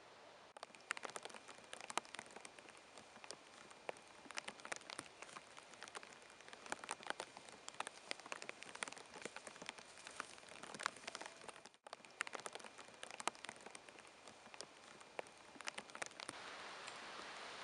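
Raindrops falling on nearby surfaces: many separate sharp drop ticks over a steady hiss of rain, settling into an even hiss near the end.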